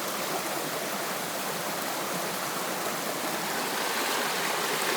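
A flowing stream: a steady, even rush of running water.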